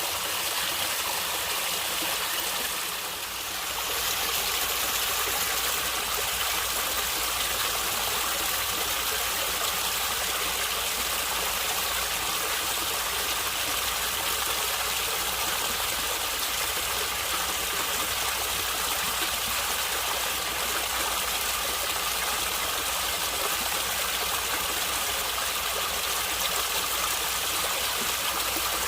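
Natural running water gurgling steadily, a continuous rush of flowing water that dips briefly about three seconds in.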